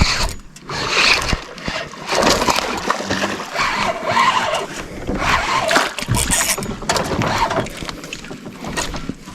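Irregular splashing and sloshing of water at a small fishing boat.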